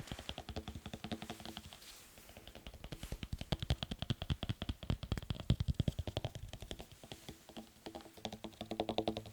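Fast tapping on hard objects: a dense run of sharp taps, many a second. Near the end the taps land on something that rings with a hollow tone.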